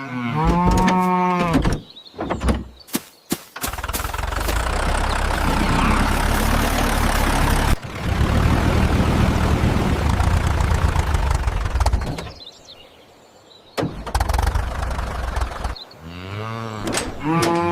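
Cartoon farm sound effects: a cow moos, a few sharp clicks follow, then a tractor engine starts and runs with a dense rumble for about eight seconds and cuts off suddenly. It runs again briefly, and another cow moos near the end.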